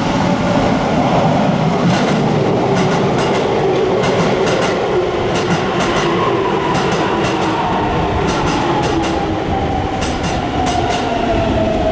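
Keisei 3000 series train with a Toyo IGBT-VVVF inverter, on its early software before the update: the inverter and traction motor whine falls slowly in pitch as the train slows. From about two seconds in, wheels click over rail joints.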